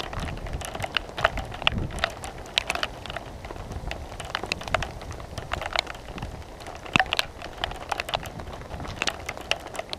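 Rain falling, with many irregular sharp raindrop ticks close by and a low rumble underneath.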